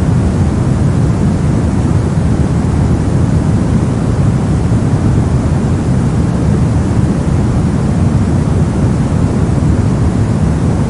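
Steady soft noise, heavier in the low end: a deep, even hiss with no rhythm and no change.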